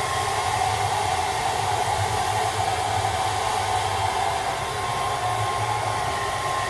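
Handheld hairdryer running steadily, blowing air with an even rush and a constant motor whine.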